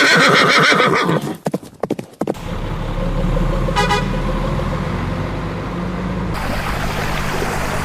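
A horse whinnies, falling in pitch, followed by about a second of rapid hoof clatter. Then a boat engine runs steadily under rushing water and wind noise, with a brief tone about four seconds in.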